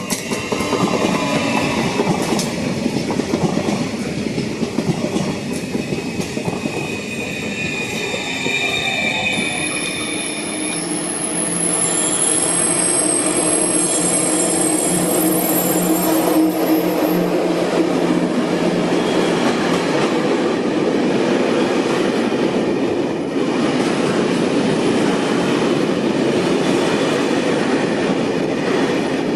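Electric trains running through a station: a regional electric multiple unit rushing past, then a freight train rolling by with a steady rumble of wheels on rails. Partway through, high-pitched wheel squeal rings out for several seconds.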